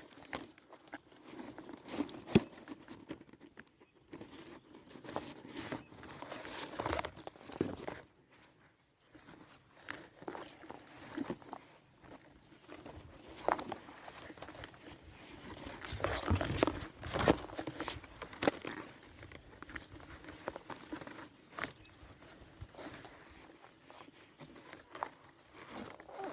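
Intermittent rustling and crinkling, with scattered light clicks and knocks.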